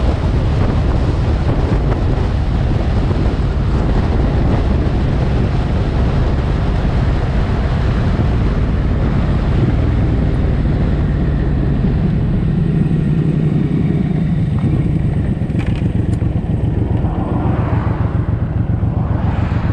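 Suzuki M109R's big V-twin engine running as the motorcycle rides along, with wind rush over the microphone. In the last few seconds the engine note drops to slower, distinct pulses.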